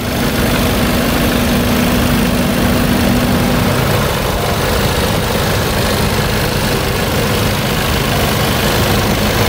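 Volkswagen Scirocco 1.4 TSI's turbocharged four-cylinder petrol engine idling steadily, heard from the open engine bay.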